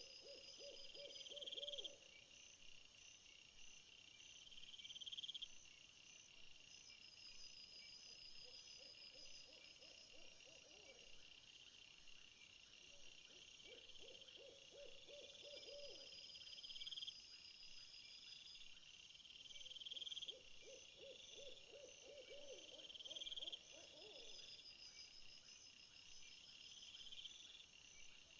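Faint chorus of insects in steady, repeating high trills. A lower pulsed trilling call comes in four times, each lasting a few seconds.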